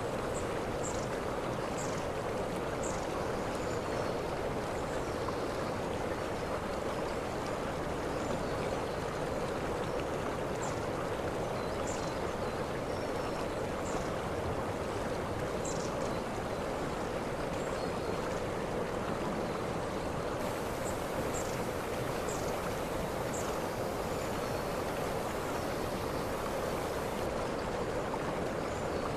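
Waterfall: a steady rush of falling water, with short high chirps here and there.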